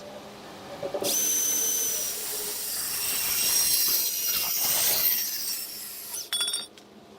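Bandsaw cutting through a metal exhaust pipe: it starts about a second in with a steady high-pitched whine over a hiss, runs for about five seconds and stops, followed by a brief rattle.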